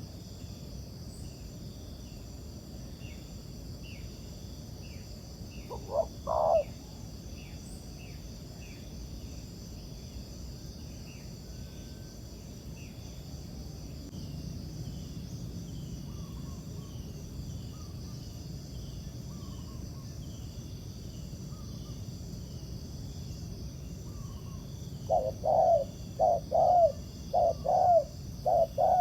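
Spotted doves cooing: one short coo about six seconds in, then a rapid run of repeated coos in the last four seconds. A steady high insect drone and a small bird's repeated faint chirps run underneath.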